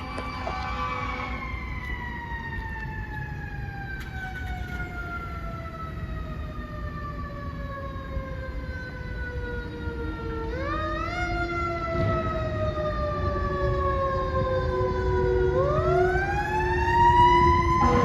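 Fire engine siren wailing and getting louder as the truck approaches. Its pitch falls slowly over about ten seconds, then sweeps quickly back up twice, the second time a few seconds later. A truck's engine rumbles beneath it.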